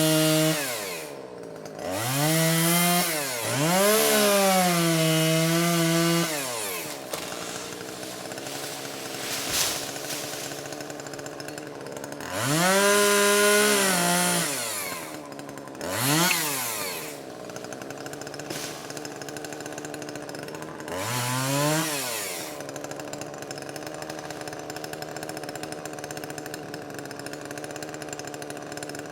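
Chainsaw engine revving up to a high, steady pitch and dropping back to idle, about six times. The longest bursts are near the start and in the middle, then it idles steadily, as when cutting down small trees.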